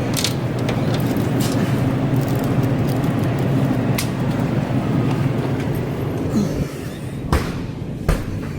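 A car driving, with steady road and engine noise as a low hum. Two sharp knocks come near the end.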